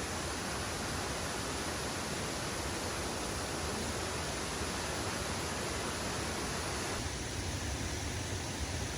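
Waterfall rushing: a constant, even hiss of falling water, its tone turning a little deeper about seven seconds in.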